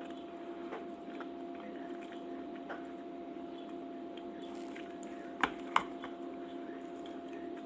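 A person chewing soft, wet food, with squishy, smacking mouth sounds over a steady background hum. Two sharp clicks come close together a little after the middle.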